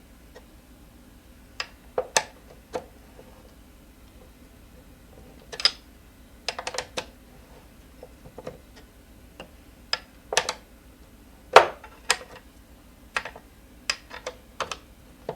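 Sharp metallic clicks and clinks at irregular intervals, some single and some in quick clusters: a 10 mm wrench and locking pliers being worked on an e-scooter's loose suspension bolt to tighten it down.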